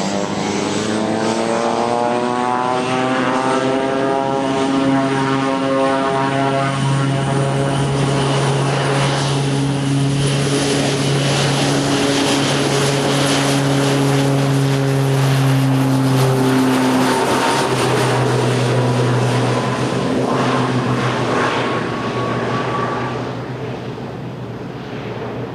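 Propeller airplane's engine running loud, its pitch rising over the first few seconds and then holding steady before fading near the end.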